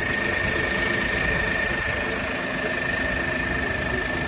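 Renault Kwid's three-cylinder petrol engine idling steadily just after starting, now that a cut wire behind its starting problem has been repaired, with a steady high whine over the engine.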